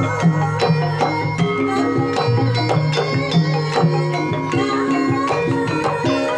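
Javanese gamelan ensemble playing a gending: ringing, held notes from struck bronze instruments stepping through a melody, with quick drum strokes throughout.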